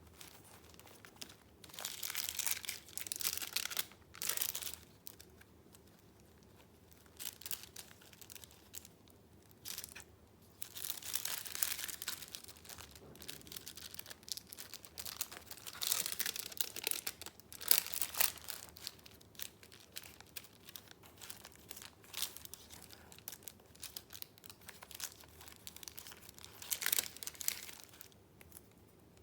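Paper being handled: sheets and paper pieces rustling and crinkling in irregular bursts with short pauses between them.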